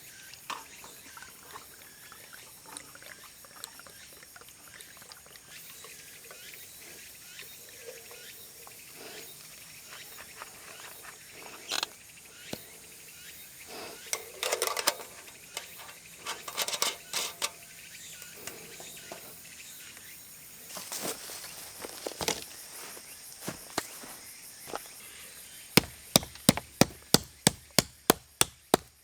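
Faint insect chorus, likely the cicadas of the forest, with scattered small clicks and knocks from camp handling. About three seconds from the end comes a quick run of a dozen or so sharp, loud clicks, roughly four a second.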